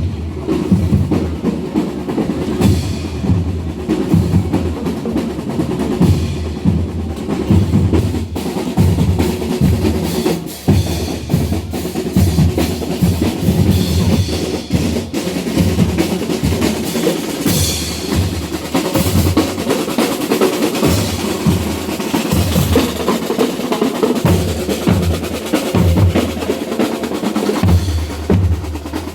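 Parade marching band's drum section playing: bass drums and snare drums beating a steady, driving rhythm.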